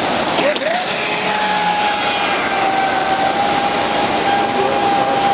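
Traxxas Spartan RC speed boat's brushless electric motor running with a steady high whine over a continuous rushing hiss.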